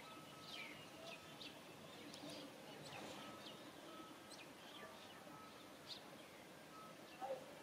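Faint birdsong: many short chirps and downward-sweeping calls over a quiet outdoor background, with a brief, louder, lower-pitched call near the end.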